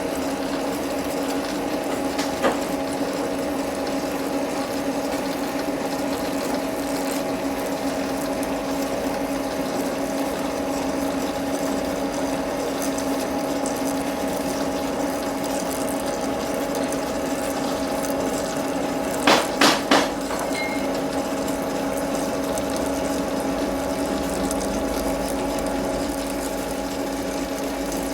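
Metal lathe running steadily with a constant hum of several tones, with a single click early and three sharp clicks in quick succession about two-thirds through.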